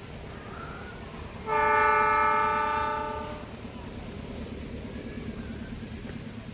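Indonesian train's horn sounding once, a single blast of about two seconds made of several steady tones together, over a steady low rumble.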